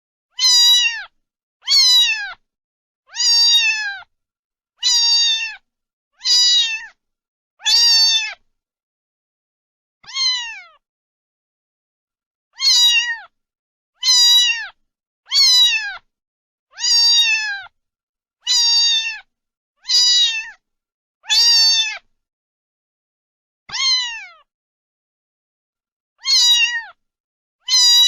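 Cat meowing over and over: about one high, falling meow every second and a half, with a few longer pauses between them.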